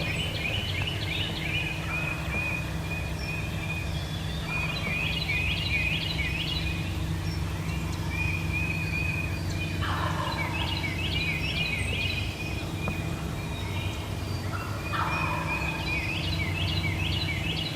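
Wild turkey gobblers gobbling in spring, a rapid rattling gobble repeated in four bouts about five seconds apart, with more than one bird sounding off.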